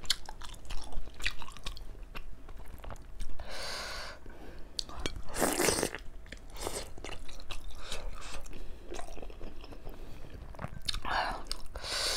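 Close-miked mouth sounds of eating a hot steamed chicken momo: wet chewing and lip smacks, with a few breathy puffs of air, the loudest about five and a half seconds in, as the hot dumpling burns the mouth.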